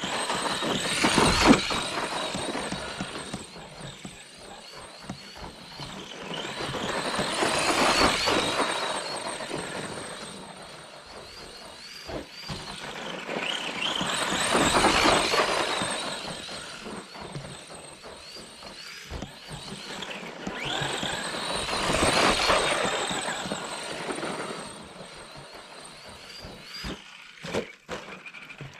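Brushed electric motor and gears of an ARRMA Granite 4X2 Boost Mega 550 RC monster truck whining as it drives, the sound swelling and fading four times about seven seconds apart.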